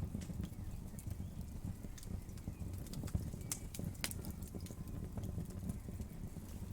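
Wood fire crackling, with irregular sharp pops over a steady low rumble of the burning logs; two of the pops, about halfway through, are louder than the rest.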